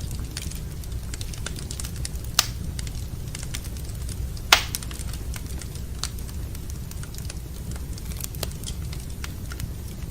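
Wood fire in a fireplace crackling steadily over a low, even rumble, with two sharper pops, the louder about four and a half seconds in.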